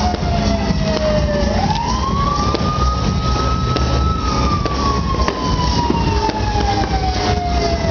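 Siren wailing in a slow cycle: the pitch falls, climbs quickly about one and a half seconds in, then sinks slowly through the rest. Under it are a steady low rumble and a few sharp pops from fireworks.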